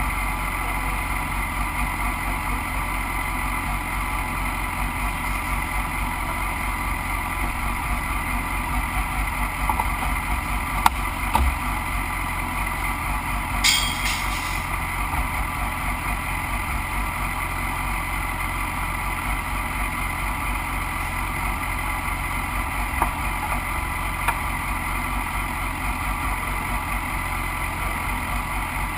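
A motorcycle engine idling steadily at a constant pitch. There are a couple of light knocks about 11 seconds in and a short metallic clatter about 14 seconds in.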